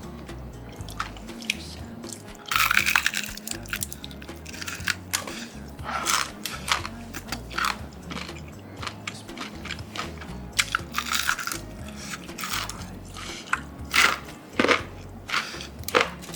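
Crunching bites and chewing of crispy deep-fried chicken: a run of sharp, crackly crunches that grows loud about two and a half seconds in, then comes in bursts. Background music plays under it.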